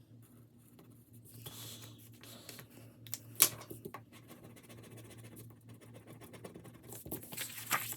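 Paper rustling and scratching as challenge sheets and cash are handled, with one sharp tap about three and a half seconds in.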